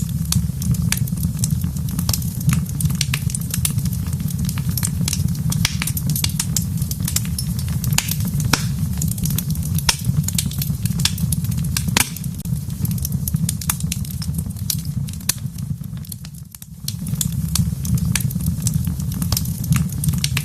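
Wood fire in a fireplace crackling, with dense irregular pops and snaps over a low steady rumble. The sound dips briefly and comes back about three-quarters of the way through.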